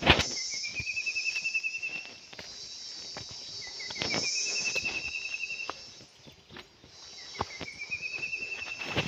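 A forest bird repeating a rising trill of quick notes three times, about every three and a half seconds. Behind it is a steady high drone of insects, with scattered light clicks.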